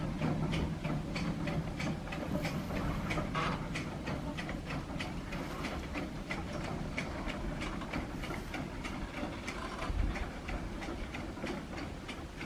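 Rail vehicle running, with a steady rhythmic clicking about three times a second over a low rumble.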